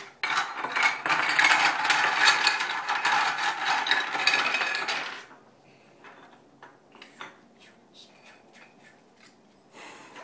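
Train puzzle pieces clattering together as they are cleared off the board: a dense jumble of clicks for about five seconds, then only scattered single clicks as pieces are set down one at a time.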